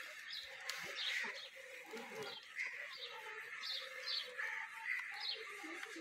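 Birds chirping: short high calls about two a second, over a lower, steadier call that comes and goes.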